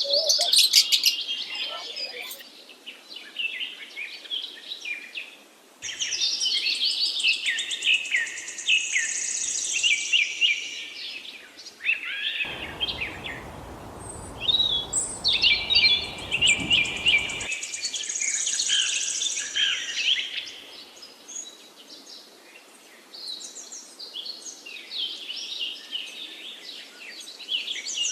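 Small songbirds chirping and trilling in busy, rapid bursts with short lulls between. For about five seconds in the middle, a low rushing noise sits under the calls.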